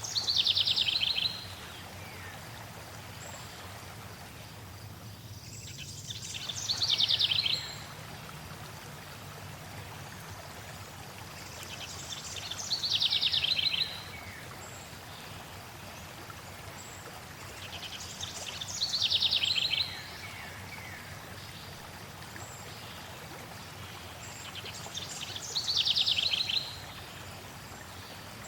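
A songbird singing the same short, fast trilled phrase five times, about every six seconds, each phrase falling in pitch, over the steady rush of flowing water.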